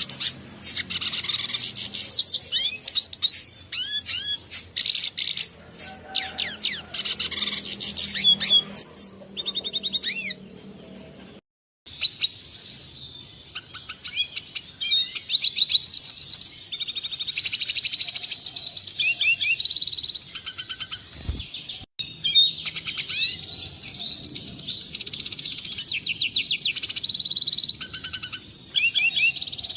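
Red siskin song: fast, clear, high-pitched twittering made of rapid sweeping notes and trills. The song breaks off for a moment about a third of the way through and again about two thirds in, where the recording is spliced.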